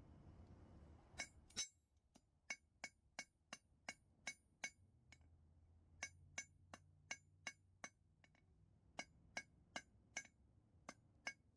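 Blacksmith's hammer striking metal on an anvil: runs of quick, ringing blows about three a second, with short pauses between runs. A low steady rumble in the first second and a half stops abruptly.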